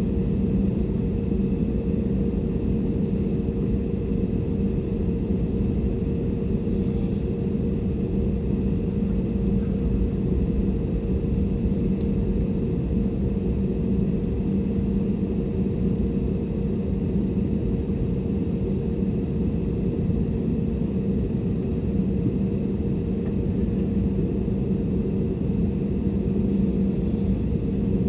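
Steady cabin drone of an Airbus A320neo airliner, engine and airflow noise with a low, even hum, unchanging throughout.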